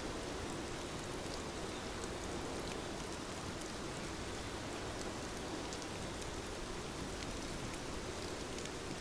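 Steady rain, with scattered individual drops ticking on a surface.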